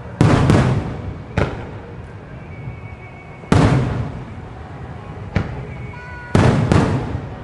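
Aerial firework shells (No. 5 shells) bursting overhead in quick succession: about seven sharp bangs, some in close pairs, each trailing off in a rolling rumble.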